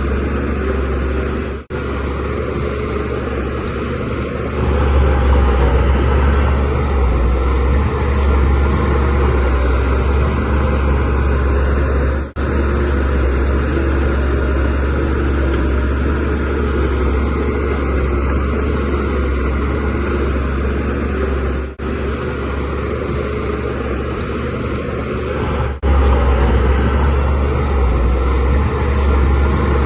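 Shantui DH17C3Pro bulldozer's diesel engine running steadily under working load. The sound drops out for an instant four times, with the level changing a little between stretches.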